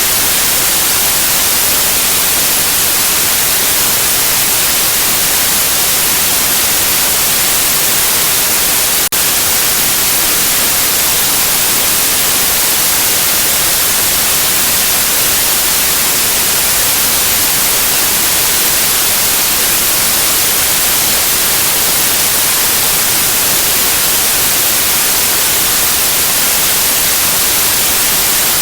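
Steady white noise: an even, loud hiss weighted toward the high end, with a momentary dip about nine seconds in.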